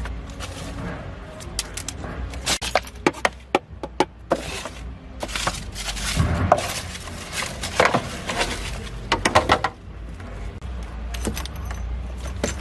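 Irregular sharp metallic clinks and knocks in clusters, like tools and metal parts being handled, over a steady low hum.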